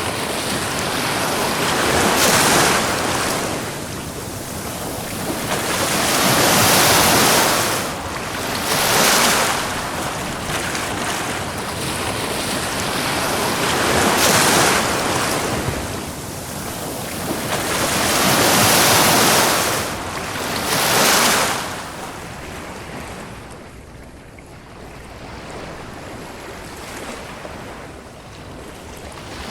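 Ocean surf breaking and washing up a beach, rising in surges every few seconds, then settling to a quieter wash over the last several seconds.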